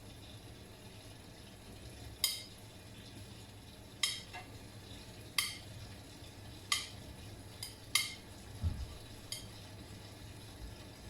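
Miele front-loading washing machine mid-wash: a steady low hum of the turning drum, with sharp clicks or clinks about every second and a half as the tumbling laundry knocks against the drum.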